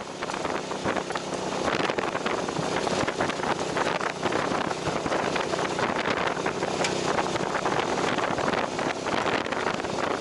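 Wind buffeting the microphone of a moving motorcycle, over a steady low engine drone.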